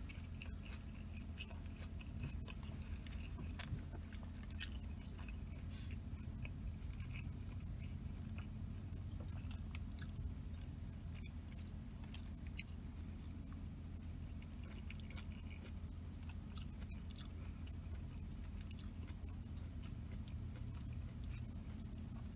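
A person chewing food with scattered small wet mouth clicks and smacks, over a steady low hum.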